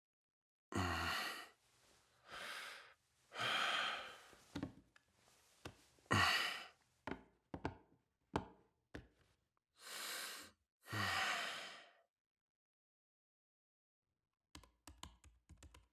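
A person sighing and breathing out heavily, about six separate breaths, followed near the end by a quick run of light taps.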